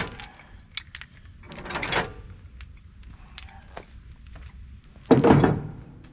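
A few clanks and knocks, some with a short ring after them. The loudest, longest one comes about five seconds in.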